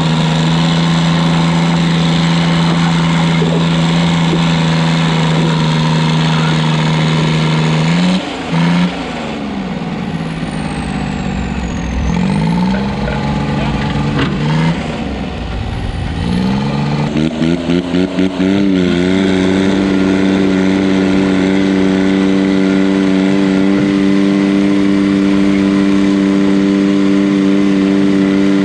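Diesel garden tractor engine running hard at steady high revs, then its speed dips and surges up and down for several seconds before settling steady again at a slightly higher pitch.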